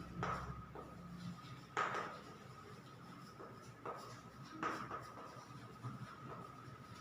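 Pen or marker writing: a few short scratchy strokes and taps, with a faint steady high whine from the recording underneath.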